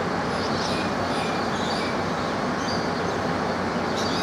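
A cane train's diesel locomotive running steadily, an even low rumble, with short high bird chirps above it.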